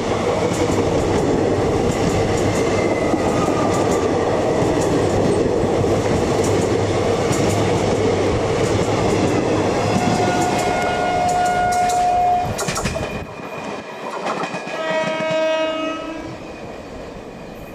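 Passenger express coaches running past at speed: a loud steady rumble with rapid wheel clatter over the rail joints. A train horn sounds about ten seconds in for a couple of seconds; the sound then drops suddenly, and a second horn with several tones sounds briefly near the end.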